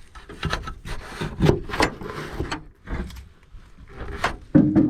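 Irregular knocks, clicks and rubbing from things being handled, with a low steady hum starting near the end.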